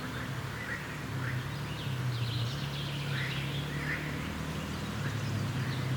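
Forest birds chirping and calling in short scattered notes over a steady low hum.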